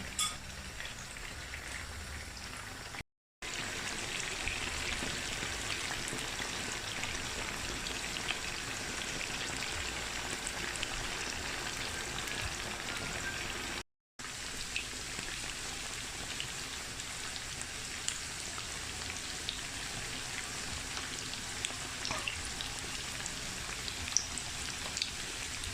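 Chicken pieces frying in oil in a pot, browning over medium heat: a steady crackle with scattered small pops. The sound cuts out briefly twice.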